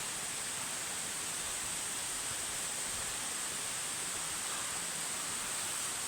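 Steady rush of mountain water flowing over rocks in a stream of cascades, an even hiss that does not change.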